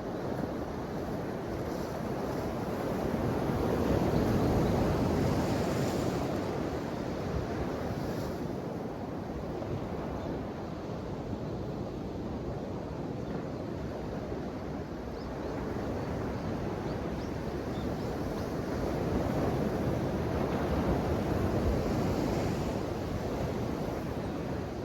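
Ocean waves washing in, a steady surf wash that swells twice, each time building and fading over several seconds.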